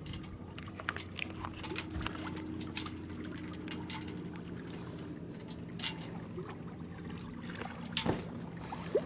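Water lapping and trickling against the hull of a small sailboat, with many short splashes, over a steady low hum.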